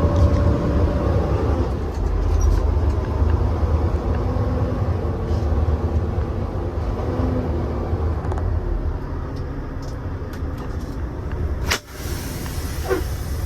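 Semi-truck diesel engine running at low speed, heard from inside the cab as the truck creeps to a stop. Near the end comes a sharp click followed by a short hiss of air, typical of the parking brakes being set.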